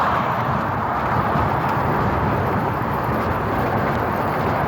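Steady rushing wind and road noise from riding an e-bike, picked up on a phone microphone.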